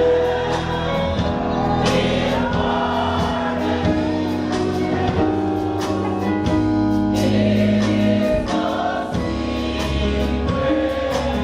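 Gospel music: a group of voices singing a slow hymn together over instrumental accompaniment, holding long notes.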